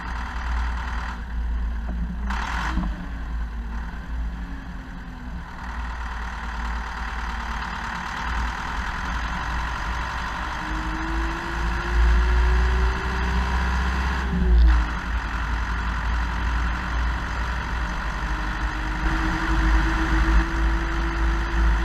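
Zetor Proxima 80 tractor's four-cylinder diesel engine running steadily with a deep rumble; its pitch climbs slowly, drops abruptly with a short clunk about two-thirds of the way through, then settles at a steady speed.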